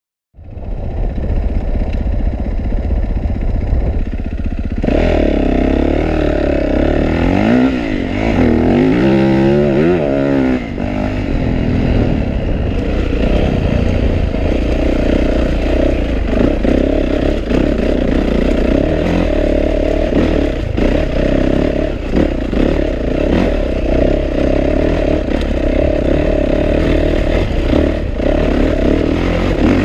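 Yamaha YZ450F's 450 cc four-stroke single-cylinder engine being ridden hard on a dirt trail. It starts about half a second in and gets louder about five seconds in, with the revs rising and falling repeatedly, then keeps running steadily under throttle.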